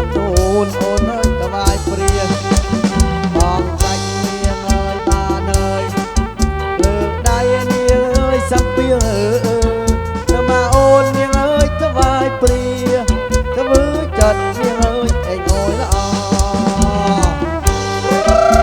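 Live kantrum band playing an instrumental passage: a steady, driving drum beat under a sliding, ornamented melody line.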